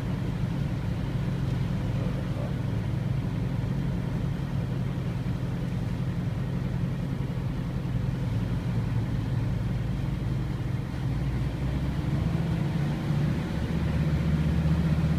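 Car engine running with a steady low hum. Its note shifts and grows a little louder about eleven seconds in.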